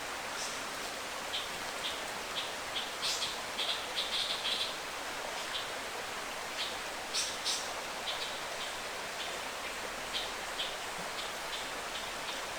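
Forest birds chattering, short high calls repeated irregularly over a steady hiss, with a couple of brief sharper calls.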